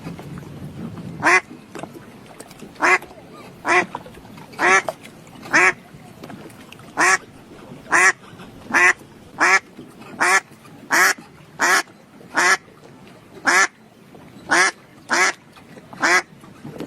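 A duck quacking repeatedly: a long series of short, harsh quacks, roughly one a second.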